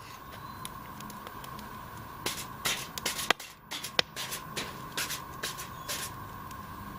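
Aerosol cooking spray (PAM) hissing in a series of short bursts onto foil on a campfire grate, with a couple of sharp clicks in the middle.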